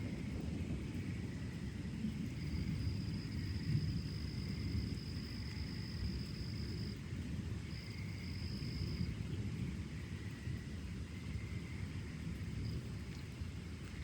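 Low, continuous rolling rumble of distant thunder from a summer thunderstorm. A high, steady buzzing tone comes in about two seconds in, stops near seven seconds, and returns briefly about a second later.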